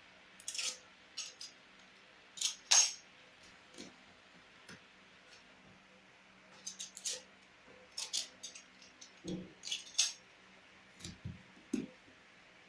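Irregular clicks, knocks and light clatter of hard objects being handled and set down, a few louder clacks with a dull thud or two near the end.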